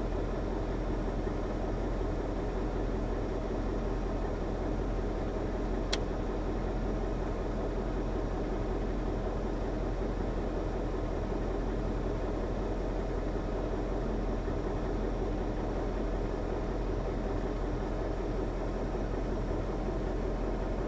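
KamAZ timber truck's diesel engine running steadily at a constant speed, with one sharp click about six seconds in.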